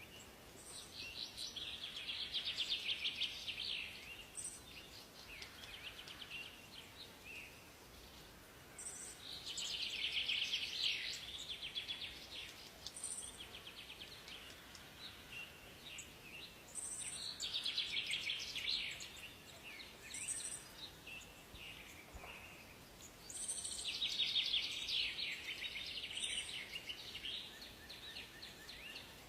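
Songbird singing in rapid trilled phrases, four phrases each lasting a couple of seconds and coming about every seven or eight seconds, with short high notes between them. Underneath is a faint, steady forest hiss.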